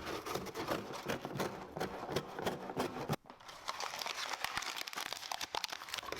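Packaging being handled and unwrapped: a dense crinkling and rustling full of small clicks, with a short break about three seconds in.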